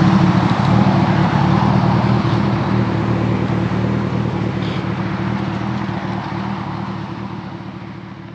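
2014 Kawasaki ZX-14R inline-four running at a steady pitch through a full Brocks Alien Head 2 exhaust, fading out over the last few seconds.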